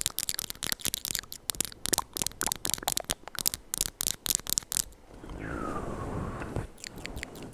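Close-miked ASMR mouth sounds: rapid, irregular wet clicks and pops for about five seconds, then a steadier breathy hiss.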